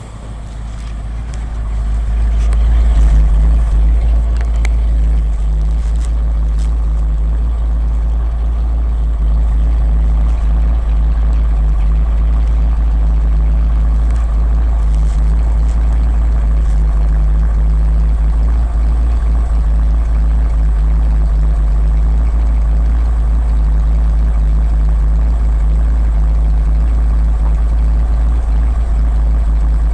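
1980 Ford F100's 302 small-block V8 running steadily, getting louder over the first few seconds and then holding an even, low rumble.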